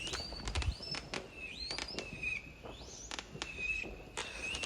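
Fireworks going off at a distance: a run of sharp crackling pops with high whistles that rise in pitch, several times over.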